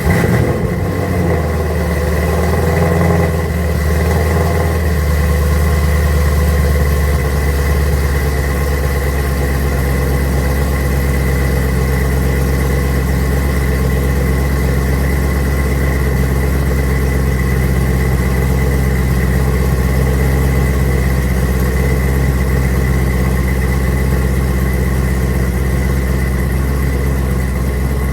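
Chevrolet Camaro ZL1's supercharged V8 catching on a cold start and settling into a fast cold idle. The idle eases down slightly about seven seconds in and then runs steadily.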